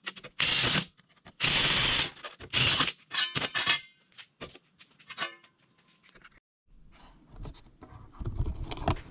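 Sheet steel being worked by hand: three loud rasping scraping strokes, then metallic clanks and a short ringing rattle of the panel, then quieter knocks.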